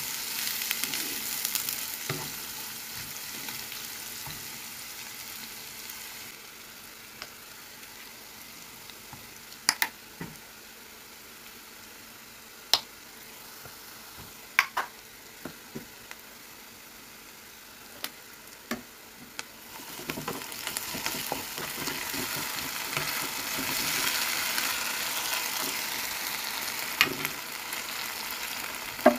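Sliced onion and garlic sizzling in hot oil in a wok while being stirred with a spatula. The sizzle dies down for a stretch in the middle, with a few sharp clicks, then rises again for the last third as the sauced onions are stirred.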